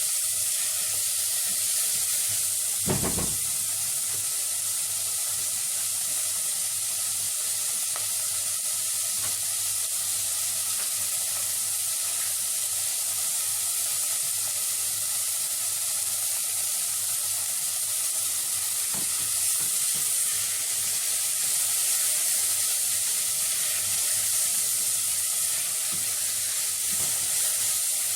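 Grated carrot, bell peppers and peas frying in samna (clarified butter) in a pot, a steady sizzle as they are stirred, with a single knock about three seconds in.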